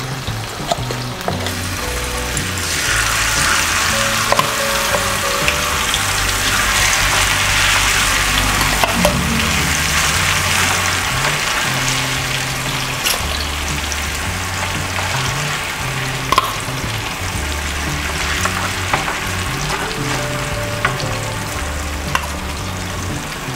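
Boneless masala-marinated chicken pieces deep-frying in hot oil in a small pan: a dense sizzle that swells about two seconds in as the pieces settle into the oil. A metal ladle now and then clicks and scrapes against the pan as the pieces are stirred.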